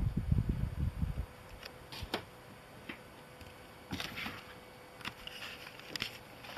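A kitten at play: dull thumps for about the first second, then scattered light clicks and short scratchy sounds.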